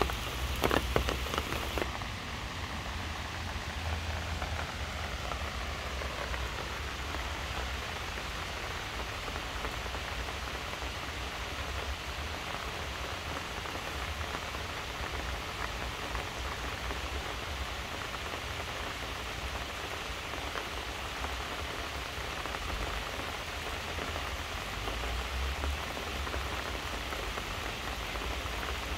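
Steady rain falling on leaves and grass: an even hiss of many drops, with a few sharper drop hits in the first two seconds.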